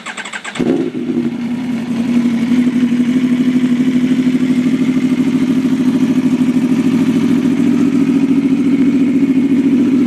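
2012 Aprilia Tuono V4's V4 engine being turned over by the starter, catching about half a second in. It then idles steadily with a rapid, even pulse.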